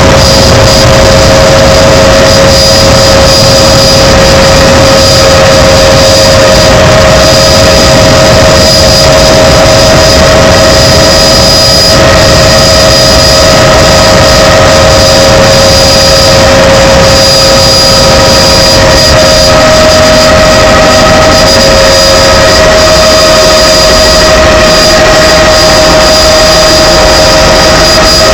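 Helicopter in flight: its turbine engine and rotors running loud and steady, with a constant high whine.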